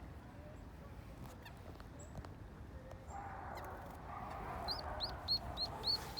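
Birds calling: a few faint high whistles, then a steady chatter from about three seconds in. Near the end one bird starts a quick run of sharp, repeated high chirps, about three a second.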